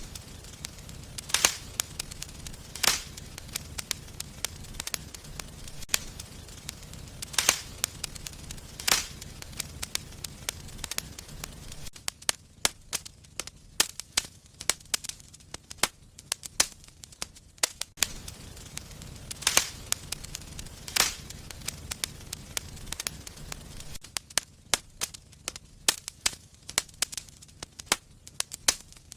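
Wood fire in a fireplace crackling, with frequent sharp pops at irregular intervals over a faint low rustle.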